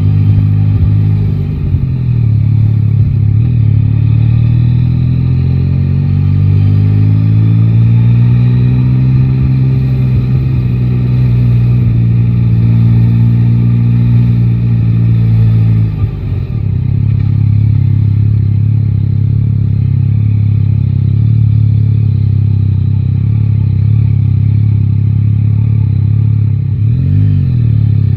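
Yamaha Tracer 9 GT's 890 cc inline-three engine running under way, its note rising as the bike accelerates through the first half, dropping briefly about halfway through, then holding steady at cruising speed.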